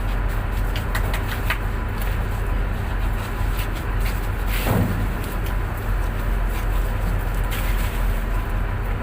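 Tug boat's diesel engine running steadily with a low, even hum, with a few light clicks and a brief louder noise about halfway through.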